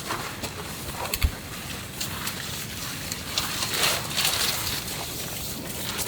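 Gusting wind noise that swells and fades, with a sharp knock about a second in.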